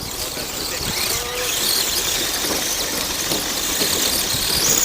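Electric drive motor and gears of a radio-controlled Axial SCX10 trail truck whining under throttle, getting louder. A high steady whine comes in near the end.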